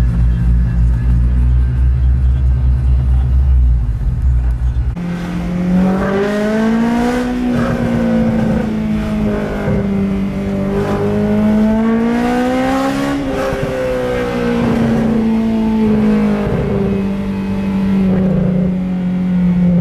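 Honda S2000's four-cylinder engine under way. For about five seconds there is a deep, steady low rumble. Then, after an abrupt change, a higher engine note rises and falls smoothly several times as the car speeds up and eases off.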